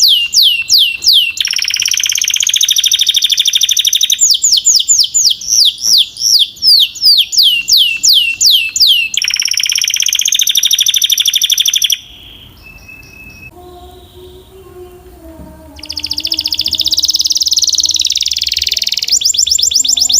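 Canary singing: runs of quick downward-sweeping whistled notes, about three or four a second, alternating with fast, buzzy rolling trills. About twelve seconds in the song drops away for a few seconds before a long trill starts up again.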